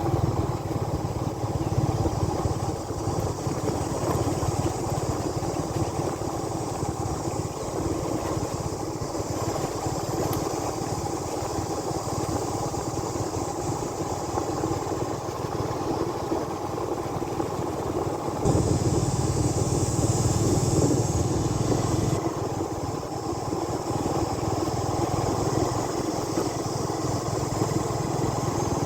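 Motorbike engine running steadily while riding, with road and wind noise. It grows louder for a few seconds past the middle.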